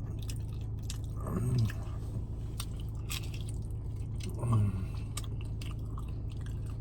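Close-miked chewing of cheese-covered nacho chips, with scattered crunches throughout. Two short hummed "mm" sounds come about a second and a half in and again about four and a half seconds in, over a steady low hum.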